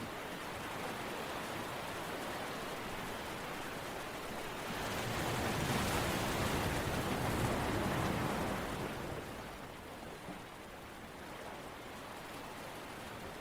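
Continuous rushing water noise, like a relaxation soundscape, swelling louder around the middle and then easing off.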